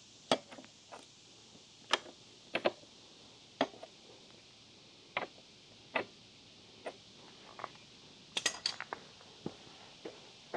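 Metal hand tools clinking and knocking as they are handled: scattered sharp clicks, with a quick cluster of clinks about eight seconds in.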